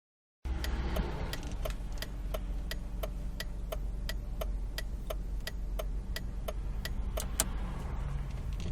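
Nissan Almera 1.8 petrol engine running steadily on LPG, a low even hum, with a sharp regular ticking of about three clicks a second over it, like a turn-signal indicator relay.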